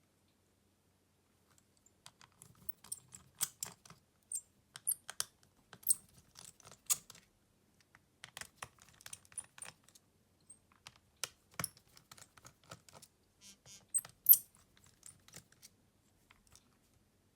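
Irregular small clicks and taps of hand tools and plastic and metal parts of a Xiaomi Redmi Note 11 smartphone, handled during disassembly or repair. The clicks come in clusters with short gaps, and one sharp click near the end is the loudest.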